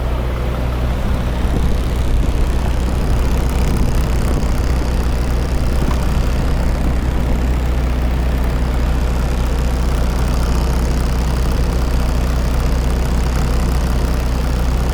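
Semi truck's diesel engine running steadily, a deep, even drone.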